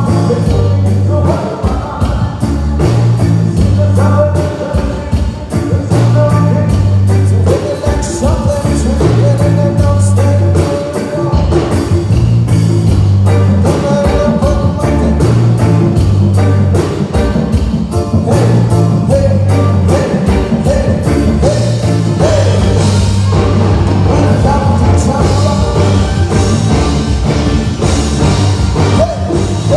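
Live band playing a rock-style song through a PA, with a singer, a prominent bass line and a steady drum beat.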